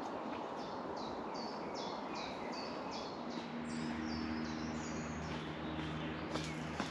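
A songbird calling in a quick series of short, high, falling chirps, about two a second, over a steady outdoor background. A low steady hum sets in about three seconds in.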